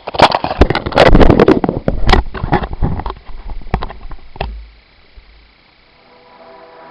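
Bicycle splashing through a shallow river crossing, with a rapid jumble of knocks and rattles that dies away about four and a half seconds in. Music fades in near the end.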